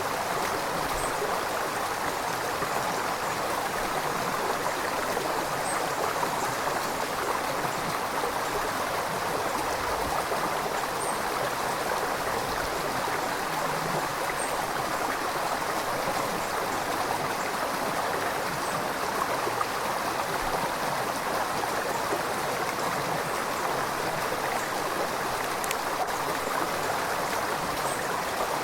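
River water flowing with a steady, continuous rushing and babbling that never breaks or changes in level.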